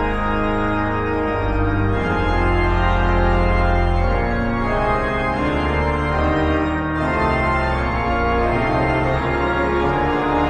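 Organ music: held chords over a low bass line, changing every second or so.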